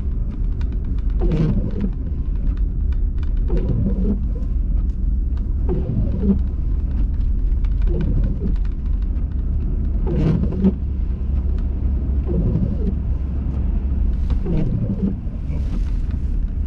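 Car cabin in a blizzard: steady low rumble of the engine and road, with the windshield wipers sweeping about once every two seconds.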